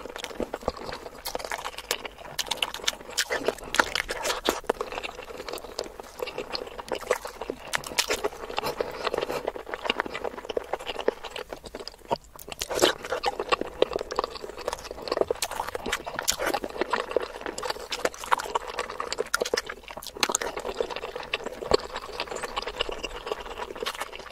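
Close-miked chewing of whole boiled eggs dipped in spicy sauce: wet, squishy mouth sounds with frequent sharp lip smacks and clicks, with a short break just after halfway.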